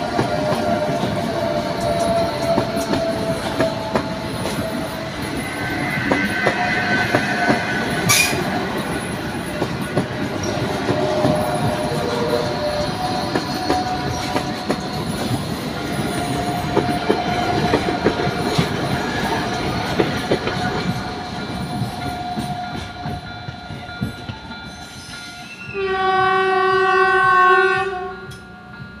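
Rodalies de Catalunya Class 447 electric multiple unit passing at close range, wheels clattering over the rails with a steady electric whine and a sharp clank about eight seconds in. Near the end, one loud horn blast of about two seconds from an approaching train.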